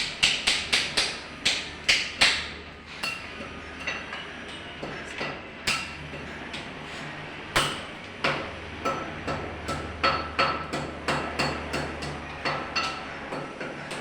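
Repeated sharp knocks or impacts, irregular, sometimes in quick runs of three or four a second and sometimes a second or more apart, with a faint ring after some strikes. A steady low hum runs underneath.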